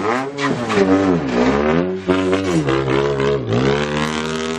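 Lowered minivan's engine revving as it pulls away, its pitch rising and falling twice and then climbing again near the end.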